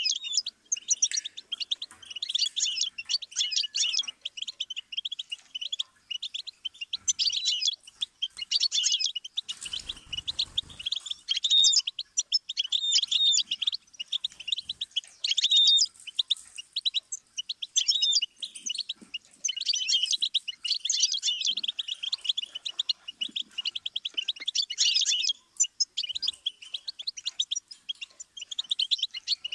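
Goldfinch song: long runs of rapid, high twittering and trilled phrases, broken by short pauses. A brief low rumble comes about ten seconds in.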